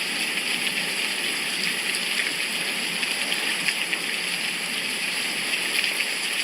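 Steady downpour of rain: an even hiss with faint scattered patter of drops.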